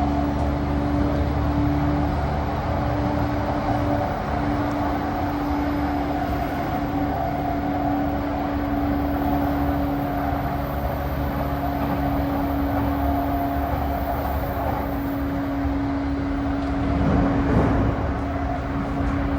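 Interior running sound of a JR East E235-1000 series EMU motor car, the one with the Mitsubishi full-SiC MOSFET VVVF drive, travelling at a steady speed. A constant motor and gear hum sits over the rolling rumble of the wheels, with a brief louder swell near the end.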